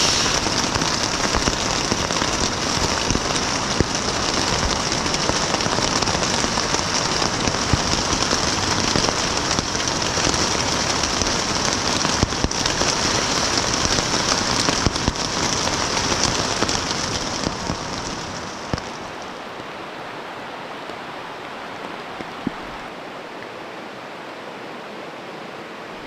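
Steady heavy rain falling, with many pattering drops. About eighteen seconds in it eases to a lighter, quieter rain.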